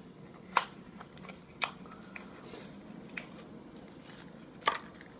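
Hands handling the toothbrush packaging and plastic parts: three sharp clicks, about half a second in, a second later and near the end, with fainter ticks and soft rustling between.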